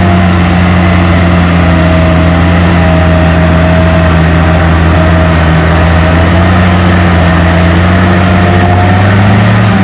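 Oliver 70 tractor's six-cylinder engine running hard under load as it pulls the weight-transfer sled, loud and steady, its pitch sagging slightly midway and picking up again near the end.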